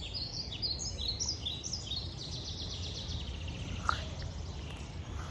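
Several wild birds chirping and singing: many short, quick falling notes, with a run of fast repeated notes in the middle, over a steady low background rumble.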